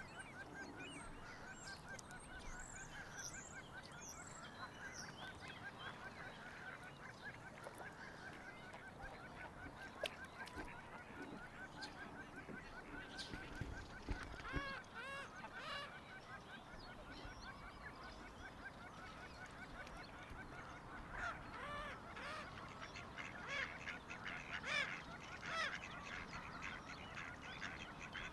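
Birds calling continuously, a dense run of rapid repeated notes, with louder calls bunching up over the last several seconds.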